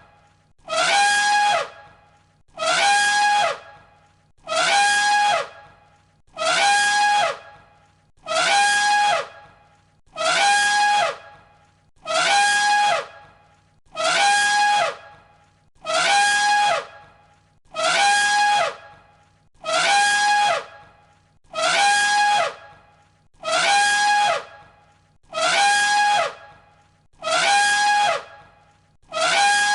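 An elephant trumpeting, the same short call looped over and over, about one every two seconds. Each call is a loud, brassy blare about a second long that drops in pitch at its end.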